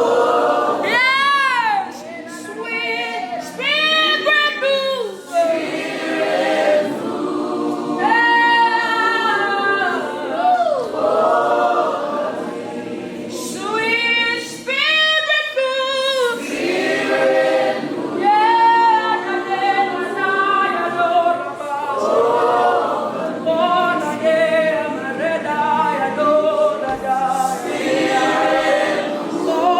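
Worship singing: several voices singing together, with a woman's voice sliding up and down in long melodic runs.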